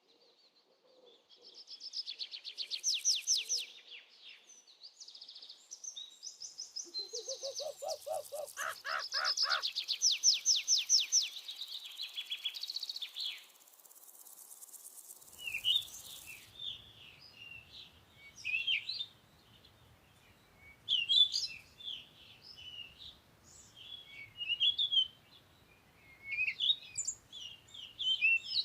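High-pitched bird calls: fast trilled runs of notes, one series climbing in pitch, then after an abrupt change about halfway through, scattered short chirps.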